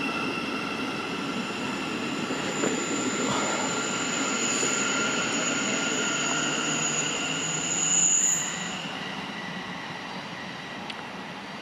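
Passenger train running through the station with a steady rumble and a high-pitched squeal. The squeal is loudest about eight seconds in, then stops, and the train's sound fades.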